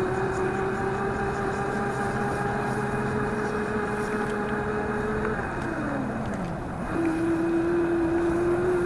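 Razor MX400 electric dirt bike's electric motor and chain drive whining at a steady pitch. About five seconds in the whine falls away in pitch as the bike slows. Near seven seconds it comes back up to its running pitch.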